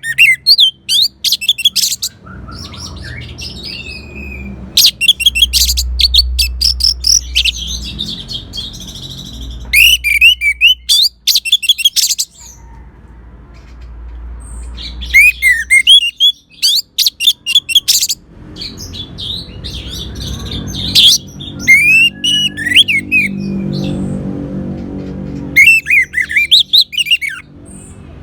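Orange-headed thrush singing in loud bouts of rapid, varied whistled and chattering phrases, about six bouts with short pauses between them, over a low steady hum.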